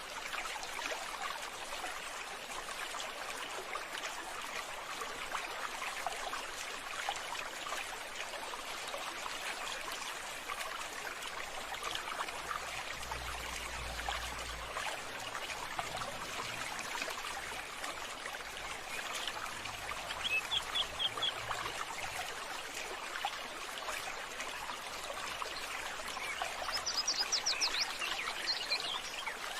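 Water trickling and running steadily, with birds calling; a quick high trill of rapid notes cuts in twice, about two-thirds through and again near the end.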